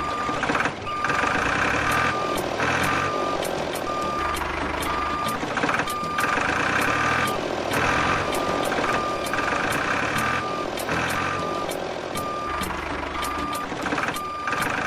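A repeating single-pitched electronic beep, like a vehicle's reversing alarm, sounding about one and a half times a second throughout, over background music with a pulsing beat.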